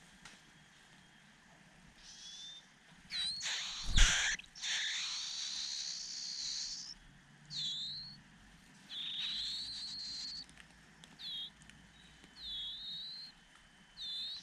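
A bird calling with a string of short, high, swooping chirps and one longer harsh call. A brief loud knock or rustle comes about four seconds in.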